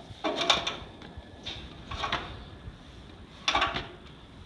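A disc harrow gang being turned by hand on a worn-out bearing, giving about four short scraping, grinding strokes, some with a faint squeal; the bearing is shot and barely rolls.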